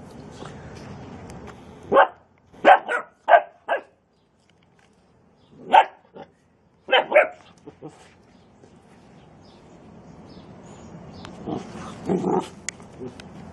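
Bernese Mountain Dog puppy barking in short, sharp yaps while play-bowing at a half lemon. A quick run of about five barks comes two seconds in, then single barks and pairs, and a lower, softer run near the end.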